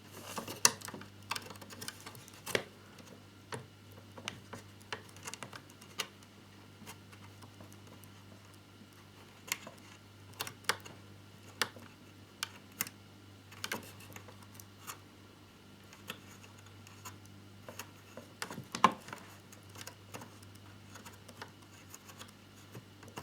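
Irregular light clicks and taps of small plastic model parts and tiny screws being handled and driven in with a small screwdriver, with a sharper click about a second in and another near the end. A faint steady low hum runs underneath.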